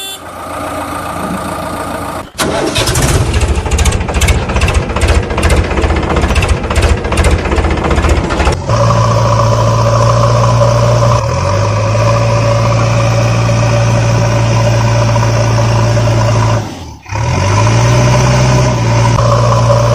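Diesel engine of a JCB 3DX backhoe loader working hard. For the first several seconds it runs unevenly in quick pulses. About a third of the way in it settles into a steady, high-revving drone, drops away briefly near the end, then picks up again.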